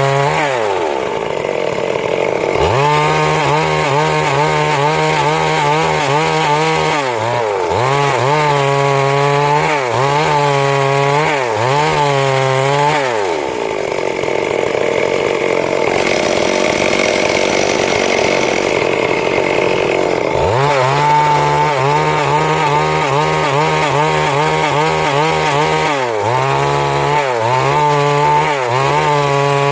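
Stihl MS 382 two-stroke chainsaw running hard while cutting wood, its engine pitch dipping and recovering again and again. For several seconds in the middle the tone blurs into a steady rough rasp, then the clear engine note returns.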